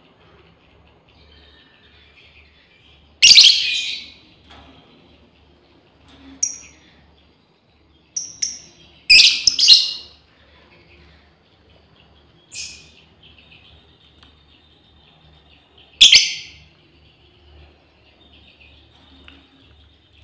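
Lovebird giving sharp, shrill calls every few seconds, with a rapid run of several calls near the middle, over faint continuous chatter. These are a female's calls to its flock mates.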